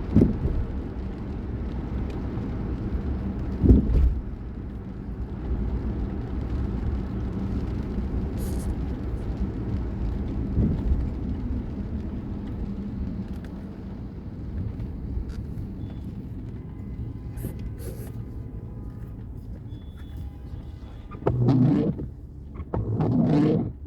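Steady low rumble of a vehicle in motion, with a couple of knocks and two louder bursts of noise near the end.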